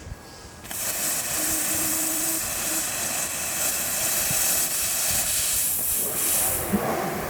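Loud steady hiss of a freeboard's wheels rolling and sliding on pavement during a run, mixed with rushing wind on the microphone. It starts suddenly about a second in.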